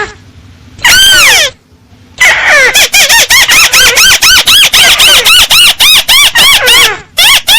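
Paddy-field crake (burung tikusan sawah) calling loudly. One long downward-sliding call comes about a second in, then from about two seconds a fast run of short rising-and-falling notes, about four a second.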